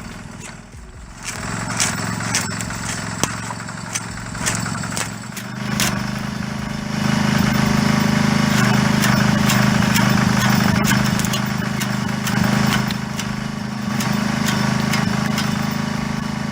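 Tractor engine running steadily to drive a disc-type firewood block cutter through a gearbox. The engine grows louder about six or seven seconds in, and many sharp clicks and cracks sound over it.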